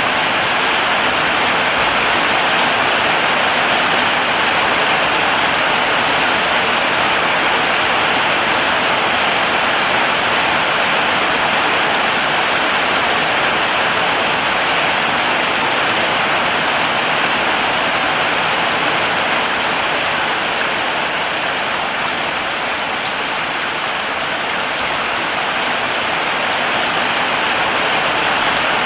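Heavy rain falling steadily, a dense, even hiss of drops on foliage and ground.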